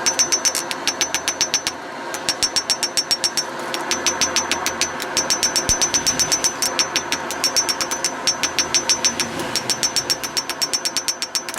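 Rapid mechanical clicking, about ten sharp clicks a second with a high metallic ring, coming in runs of one to two seconds with short pauses between, over a steady machine hum.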